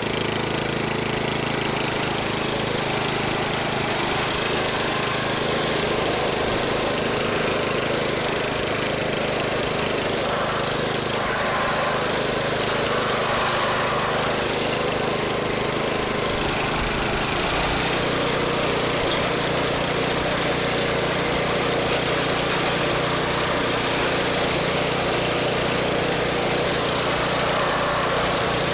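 Briggs & Stratton 14.5 hp OHV single-cylinder garden tractor engine running steadily and evenly.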